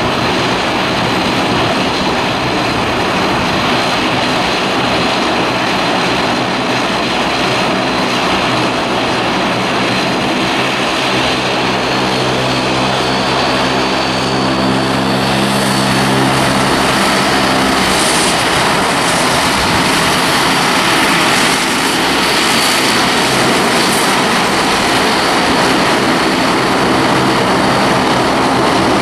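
Aircraft engines running loud and steady, with a low droning hum through the middle that fades out, and a brighter hiss building in the second half.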